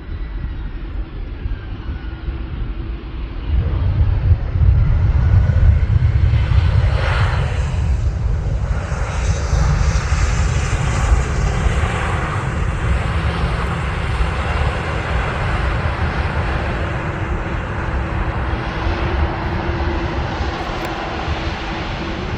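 Jet engines of an Aer Lingus Airbus A320 airliner coming in to land and passing close by: a roar that swells sharply about three to four seconds in and then fades slowly. A faint whine glides down in pitch before the roar builds.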